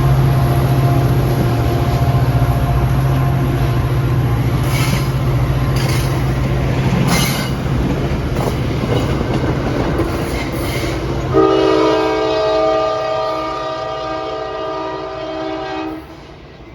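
Diesel commuter-train locomotive running with rail clatter and a few sharp clicks. About eleven seconds in, its Nathan K5LA multi-chime air horn sounds a steady chord for about five seconds before the sound drops away.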